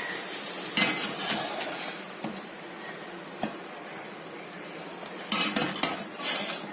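Metal pot and spoon clinking and scraping, with short hissing rushes of liquid, as curdled milk is strained through a cloth-lined strainer to separate the paneer curds from the whey.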